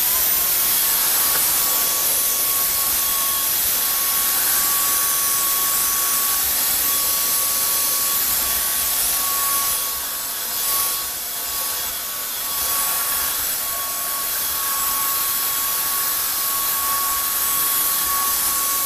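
Vacuum cleaner running with a steady high whine over a loud hiss, cleaning up overflowing soap suds. Its level dips briefly about ten seconds in.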